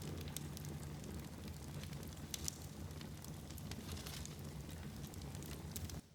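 Wood fire burning in a fireplace: a steady low rumble of flames with scattered sharp crackles and pops. The sound drops out briefly at the very end.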